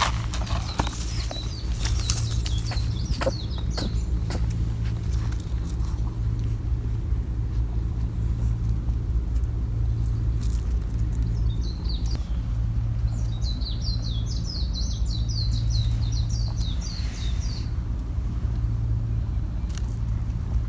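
A small bird singing rapid, high chirping trills, in two spells (near the start and again in the middle), over a steady low rumble, with scattered small clicks.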